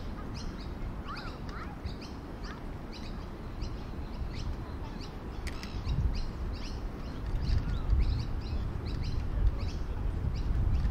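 Small birds chirping in quick, short notes, several a second, over a low rumble that grows louder from about six seconds in.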